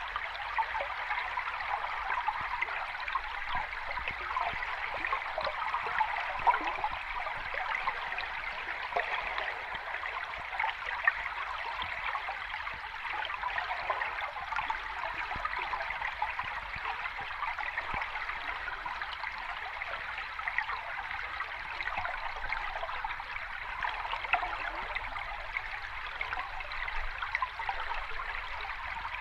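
Sea water washing and fizzing steadily, a continuous crackling hiss of many small splashes and bubbles with no distinct wave surges.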